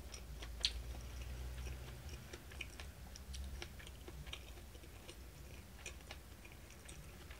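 A person chewing a mouthful of seafood tempura and rice, with small scattered mouth clicks and smacks.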